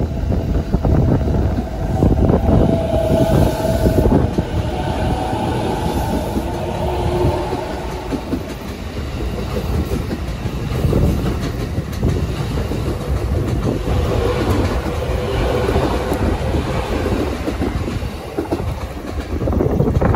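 JR East E217-series electric train running past and away on the near track, its wheels beating a steady clickety-clack over the rail joints.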